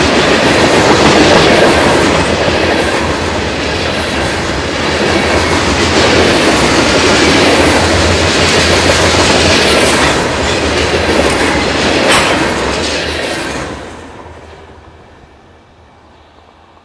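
Loaded covered hopper cars of a grain train rolling past, steel wheels rumbling with sharp clicks and clatter. About three-quarters of the way through the last car goes by and the noise falls away quickly.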